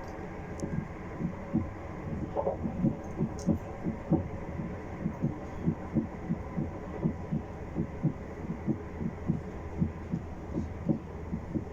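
Wheels of a Class 450 Desiro electric train knocking over track joints, a run of short low knocks at roughly two to three a second over the train's steady running hum.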